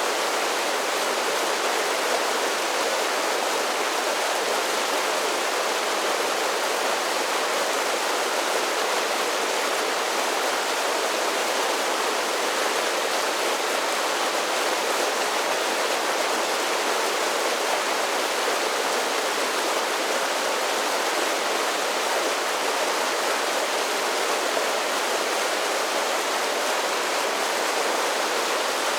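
Mountain creek cascading over a series of small falls: a steady, even rush of water with no changes.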